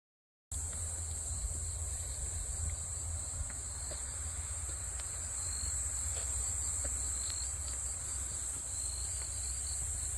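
Steady high-pitched insect chorus that starts abruptly about half a second in, over a low rumble.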